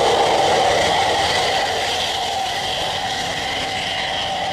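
Jet airliner engines running: a steady, loud noise with a fixed whining hum in it that eases off slightly over the seconds.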